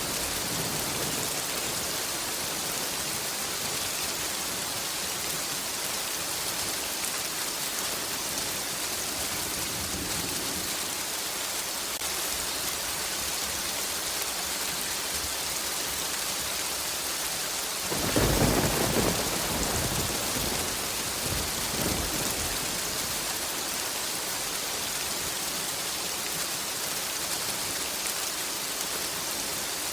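Steady heavy rain falling. About 18 seconds in, a clap of thunder breaks in suddenly and rumbles away over a few seconds, with a smaller rumble following.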